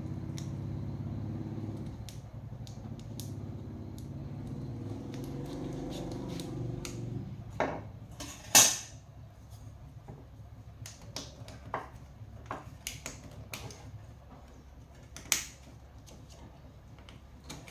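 A low hum from a small motor that stops after about seven seconds, followed by scattered sharp clicks and clinks of metal parts and tools being handled, the loudest about nine seconds in.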